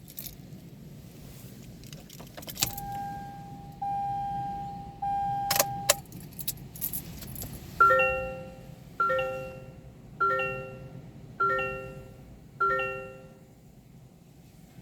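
Keys jangling, then the 2023 Toyota Corolla LE's cabin warning chime: three steady held tones with a click, followed by five decaying chimes about a second apart, just before the engine is started.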